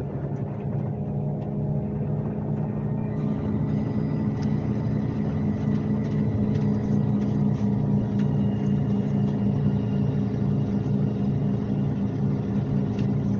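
Scania K370C coach's diesel engine running under way, heard inside the passenger cabin as a steady low drone with road noise. It grows a little louder over the first few seconds, with a few light cabin rattles.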